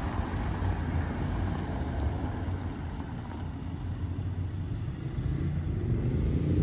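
Low, steady rumble of a BMW 330i G20's turbocharged four-cylinder engine as the car creeps backwards at low speed into a parking bay, steered by its Reversing Assistant. The rumble swells slightly near the end.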